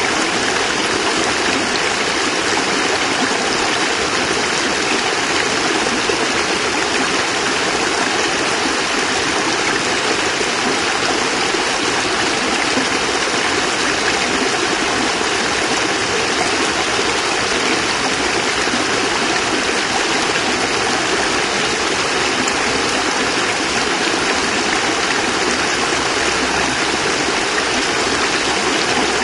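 Water of a small cascade pouring and splashing steadily, an even rushing sound without breaks.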